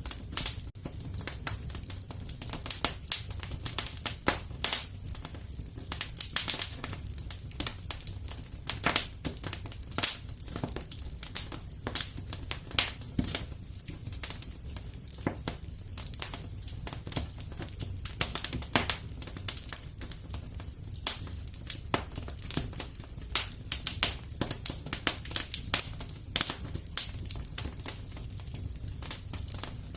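Fireplace fire crackling steadily, with irregular sharp pops and snaps over a low, even rumble of the flames.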